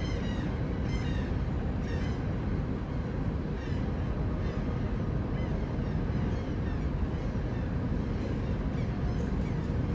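Birds calling over and over in short, high, sliding cries, most often in the first couple of seconds and more sparsely after, over a steady low rumble.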